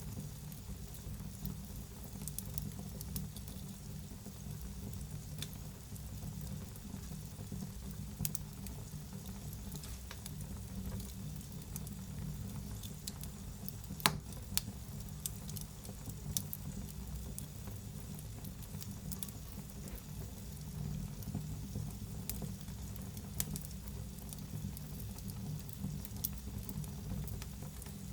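Wood fire burning in a fireplace: steady low rumble of the flames with irregular crackles and pops, the loudest pop about halfway through.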